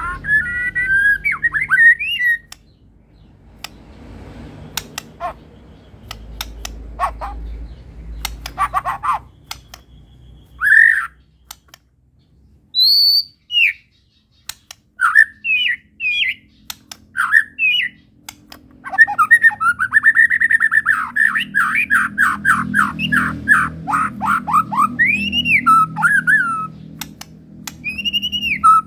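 White-rumped shama (murai batu) singing a varied song of whistled phrases and sharp clicks, with a long fast run of repeated notes in the second half. The bird is in full, busy song ('gacor'), its song packed with borrowed phrases ('full isian').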